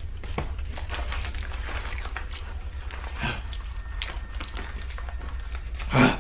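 Chewing and crunching of ghost pepper chips, with breathing, and a loud gasping exhale near the end from the burn of the pepper. A steady low hum runs underneath.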